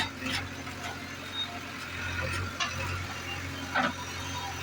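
Heavy diesel machinery engine running steadily at a low, even hum, with a few brief sharp sounds over it.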